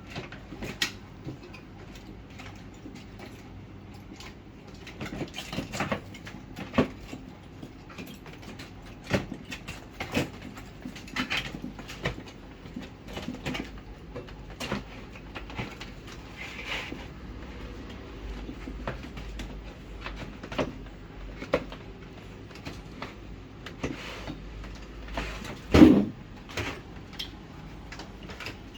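Irregular clicks, taps and knocks of tools and parts being handled during air conditioner repair work, with one louder thump near the end.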